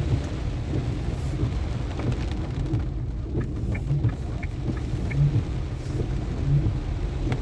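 A car driving in heavy rain: a steady low rumble of tyres on the wet road, with the hiss of rain over it. A few light ticks come about halfway through.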